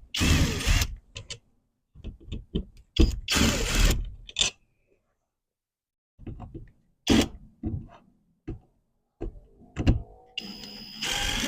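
Hands removing a car door speaker: two bursts of scraping and rustling, scattered clicks and knocks, and near the end a small motor whirring briefly.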